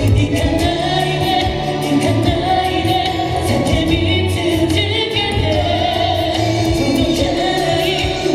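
K-pop song performed by a male vocal group: sung melody with vibrato over a backing track of bass and drums.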